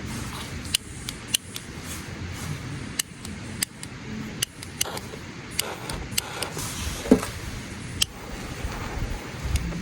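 Wood campfire crackling, with sharp irregular pops and snaps over a low steady rumble of burning.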